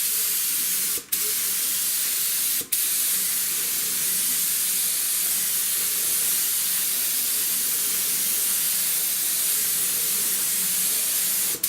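Compressed-air spray gun hissing steadily as it lays a coat on a car body panel. The trigger is let off briefly twice, about one second and two and a half seconds in, and released near the end.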